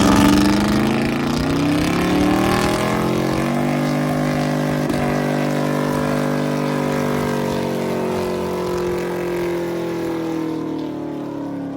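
Truck engine revved up over about four seconds and then held steady at high rpm, the way it is held for a burnout, easing off slightly near the end.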